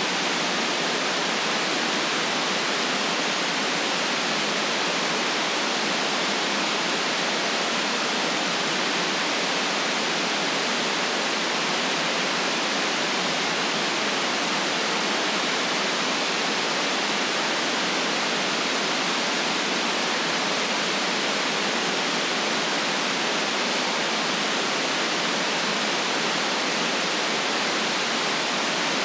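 Steady white noise: an even, unchanging hiss with no deep rumble and nothing else in it.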